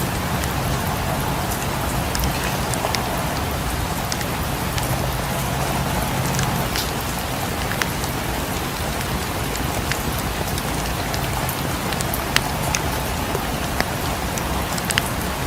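Steady rain, with scattered sharp pops and crackles from a wood fire in a fireplace.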